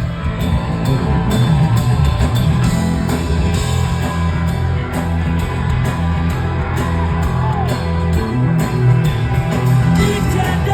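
Live rock band playing, with a heavy, loud bass line, steady drum hits and a guitar playing sliding notes.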